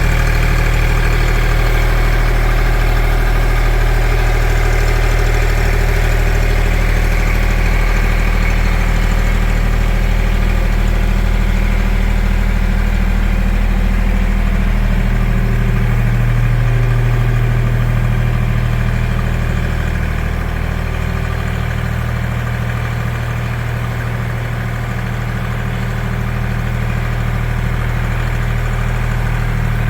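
Kubota L2501 tractor's three-cylinder diesel engine running steadily at low speed. Its note shifts about halfway through and eases a little in the second half.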